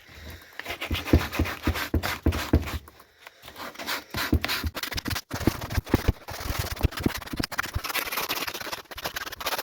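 Sandpaper scraped back and forth over a boot by hand, scuffing it to look worn: quick repeated rasping strokes, about three a second, some with a dull knock.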